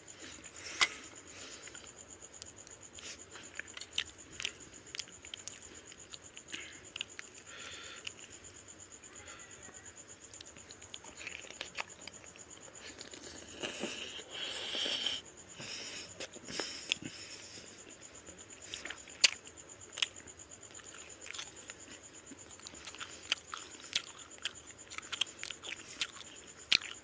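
Close-up eating sounds of a person eating rice and fish head curry by hand: wet chewing, lip smacks and small clicks, scattered irregularly, with a longer burst of noisy mouth sounds about halfway through.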